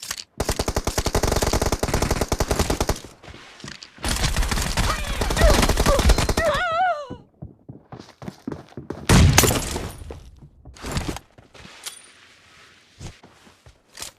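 Video-game automatic gunfire: two long bursts of rapid fire a second apart, followed by a short warbling electronic tone, one louder blast about nine seconds in, and scattered single shots.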